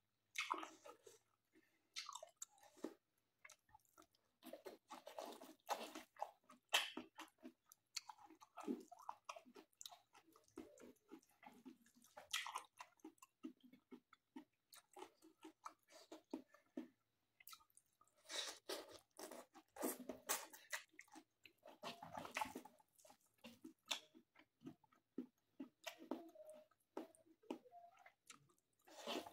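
Close-up mouth sounds of a person chewing a hand-rolled mouthful of rice, mutton and squash leaves: irregular wet chewing with many short, sharp crunchy clicks, busiest about two-thirds of the way in.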